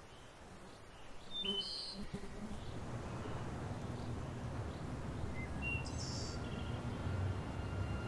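Birds chirping a few short times over a low, steady outdoor rumble that swells a little after the first second; a faint, steady high tone sets in about halfway through.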